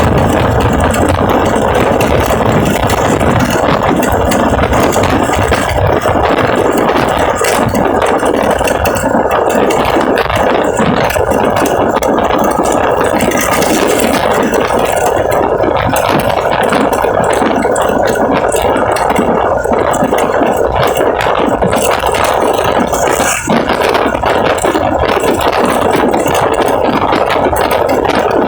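An engine running steadily with a rattle, loud and unchanging throughout.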